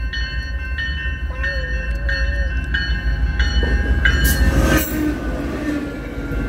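GO Transit diesel commuter train arriving close by, with a bell ringing in even strokes about every two-thirds of a second. About four seconds in, a loud rush of noise comes as the locomotive passes, followed by the rumble of its engine and the coaches' wheels rolling by.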